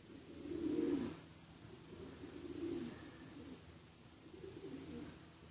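A dove cooing: a run of soft, low coos repeating every second or two, the loudest about a second in.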